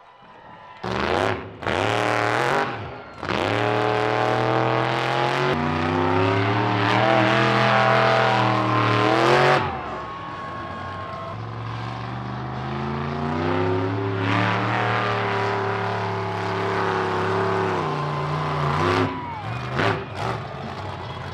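Monster truck engine revving hard during a trick run: two short blips, then a long run at high revs that drops off about ten seconds in, before revving up again and easing off with a few quick blips near the end.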